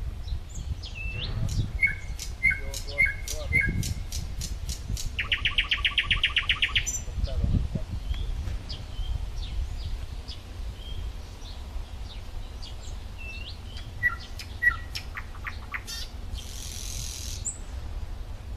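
Wild songbirds chirping and whistling: short call notes come in groups, and a fast, even trill of about two seconds comes a third of the way in. A steady low rumble runs underneath.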